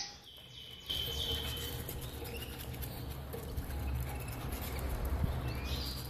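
A few short, high bird calls from caged finches over a low, steady rumble.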